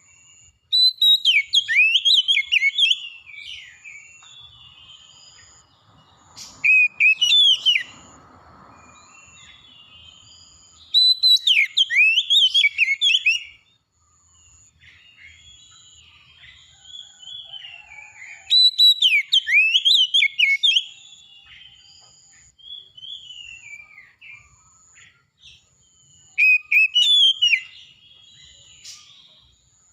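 Songbirds singing: loud phrases of rapid, sliding whistled notes come five times, each lasting two or three seconds, with quieter song between them and a faint, high, evenly pulsing tone behind.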